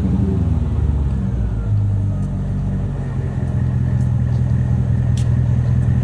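Mercedes-Benz CL500's 5.0-litre V8 running with its rear exhaust removed, settling from the start-up rev into a steady idle in the first half-second.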